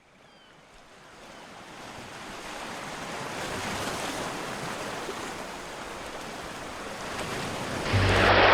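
Ocean surf washing on a shore, fading in over the first few seconds and swelling louder near the end as low music notes come in.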